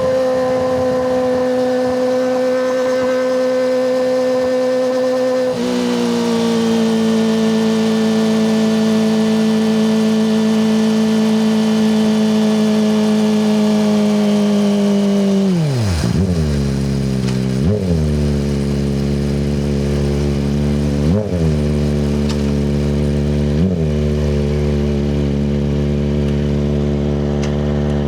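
Kawasaki ZX-25RR's inline-four engine through a Yoshimura Hepta Force exhaust. It holds a steady high-rpm note, drops a step about five seconds in and sinks slowly, then falls sharply to a low, lumpy note about two-thirds of the way through. After that come four short throttle blips.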